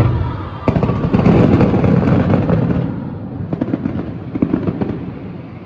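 Aerial fireworks bursting: a loud volley of booms and crackles that is densest in the first three seconds, then thins to scattered crackles and dies away.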